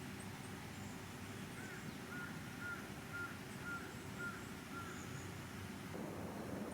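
A bird calling a run of about seven short, evenly spaced notes, roughly two a second, with fainter high chirps from other small birds over a steady background hiss.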